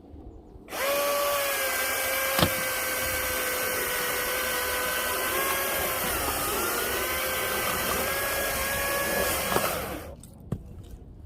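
Battery-powered cordless chainsaw running for about nine seconds, its electric motor giving a steady high whine while cutting a firewood log. The pitch sags briefly about midway as the chain takes load, then the saw cuts off sharply.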